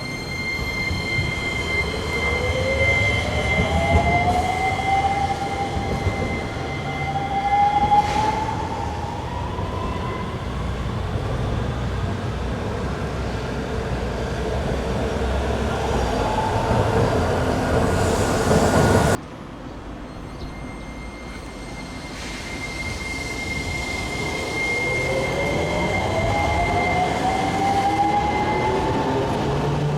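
Hiroden 5100-series low-floor electric tram's traction motors whining, rising in pitch as it pulls away, over a rumble of wheels on rail. The sound cuts off suddenly about two-thirds of the way in, then another rising whine follows as the tram accelerates again.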